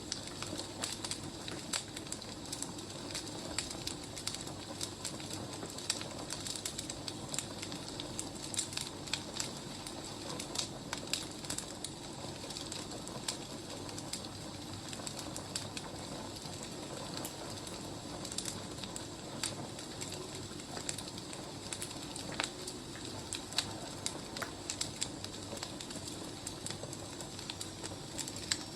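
Wood fire crackling: many irregular sharp pops and snaps over a steady low rush of burning logs.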